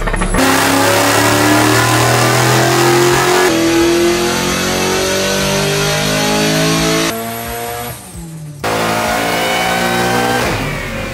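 A car engine accelerating hard, its pitch climbing steadily through the revs, in several clips cut together. The sound dips briefly about eight seconds in before another engine pull rises again.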